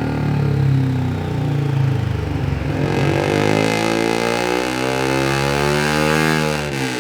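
Suzuki GSX-R150's single-cylinder four-stroke engine through a Yoshimura R77 full-system exhaust, revving under throttle. Its pitch climbs steadily over several seconds, then drops sharply near the end as the throttle is closed.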